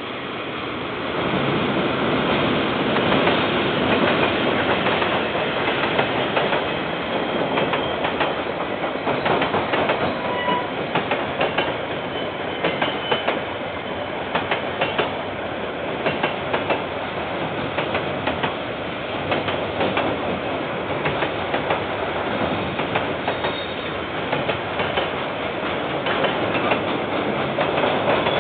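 KiwiRail train passing close by, heard through a security camera's microphone. The sound swells about a second in as the locomotive arrives, then the wagons roll past with a steady clickety-clack of wheels over the rail joints.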